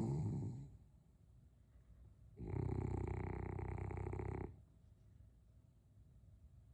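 French bulldog snoring: a short snore right at the start, then a longer rattling snore of about two seconds.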